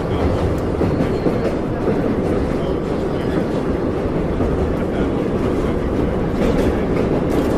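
Subway train in motion: a steady, even rumble of wheels and rails.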